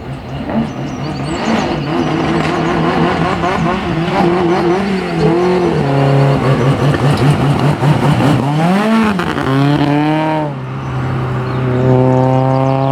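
Renault 19 16V's four-cylinder 16-valve engine racing flat out, its pitch climbing and dropping repeatedly through the gears, then holding a steady note near the end.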